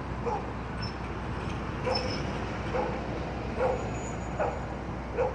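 Steady low vehicle engine rumble with a dog barking over it, short barks repeating about once a second.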